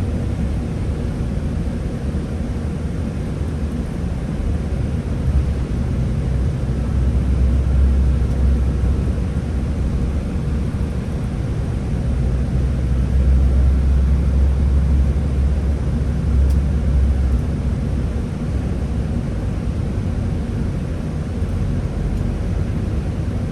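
Scania Higer A30 city bus running, a steady low engine and road rumble that swells louder twice in the middle, as when the bus pulls away or accelerates.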